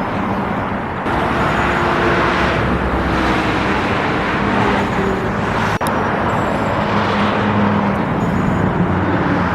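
Road traffic: cars driving past one after another, engine and tyre noise swelling and fading as each goes by.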